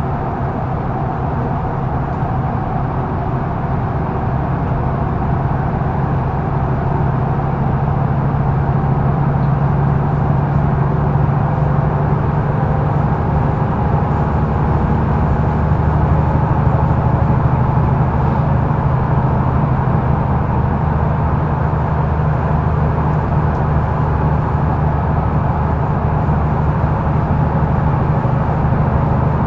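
Mercedes-Benz O530 Citaro facelift intercity bus heard from inside the cabin while driving: the diesel engine runs steadily under road and cabin noise, growing a little louder over the first several seconds and then holding even.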